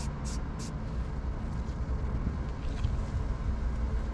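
Primer spraying in short, quick hissing bursts, about three a second, that stop under a second in. A steady low rumble runs underneath.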